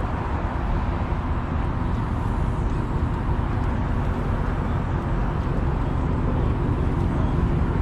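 Muscle car engines running with a steady low rumble, growing slightly louder towards the end.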